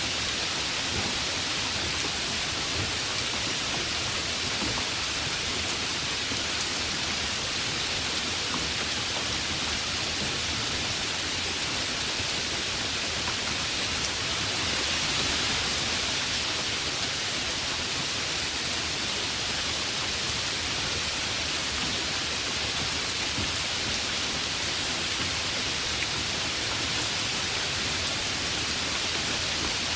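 Heavy rain falling steadily, an even hiss with a slight swell about halfway through.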